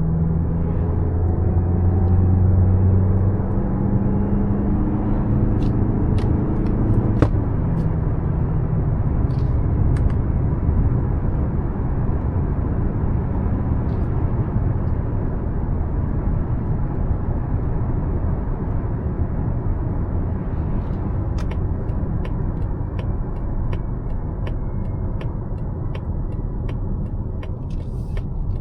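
Mazda CX-5's 2.5-litre naturally aspirated four-cylinder engine heard from inside the cabin under acceleration, its tone rising in pitch for the first several seconds. It then gives way to steady tyre and road noise. About three quarters of the way in, a regular ticking starts, about two a second.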